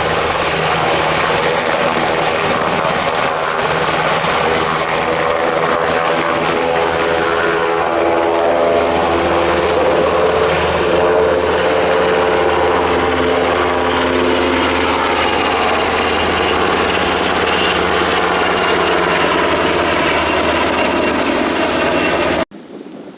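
UH-60 Black Hawk helicopter running loud and steady, the drone of its twin turboshaft engines and rotor shifting in pitch partway through. It cuts off abruptly near the end.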